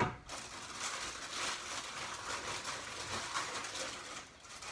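A knock, then about four seconds of rustling and rattling as household objects are handled, easing off near the end.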